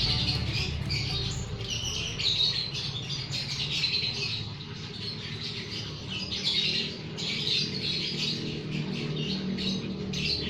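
Lovebirds chattering, a steady run of short, high-pitched squawks and chirps.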